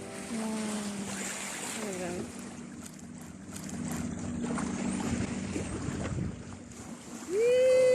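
Wind and water rushing along a sailboat's hull at sea, with a steady low hum underneath. A loud, long pitched note with overtones starts near the end.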